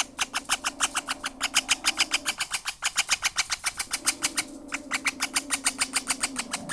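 Baby Princess of Wales parakeet making rapid, evenly spaced raspy chirps, about seven a second, over a steady low hum that drops out for a moment in the middle.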